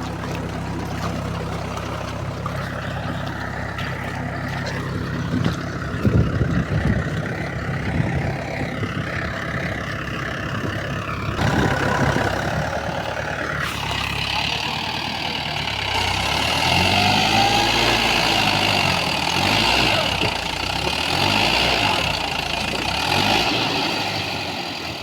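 Mahindra 275 DI tractor's diesel engine running: steady at first, then changing pitch and getting louder in the second half as it is revved.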